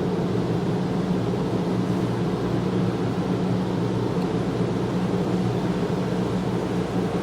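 Automatic car wash machinery running: a steady rushing noise with a low hum that does not change.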